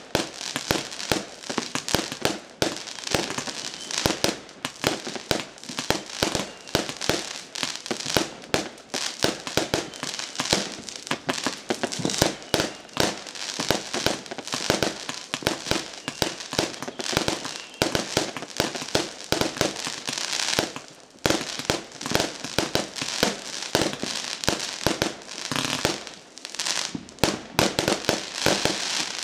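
Aerial fireworks going off in rapid succession: a dense stream of bangs and crackling bursts, with a brief lull about two-thirds of the way through.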